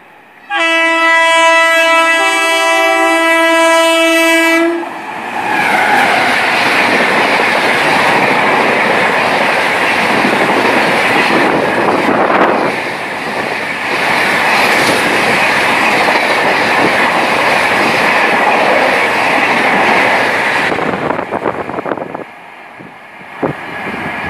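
A WAP7 electric locomotive sounds one long horn blast of about four seconds, then the train passes at speed. The wheels and wind on the rails make a steady rush for about fifteen seconds, which ends about twenty seconds in.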